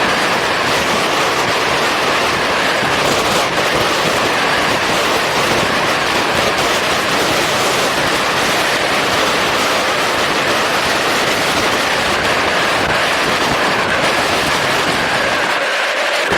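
Wind and engine noise from a moving motorcycle, heard on a camera riding with it: a steady, loud rush.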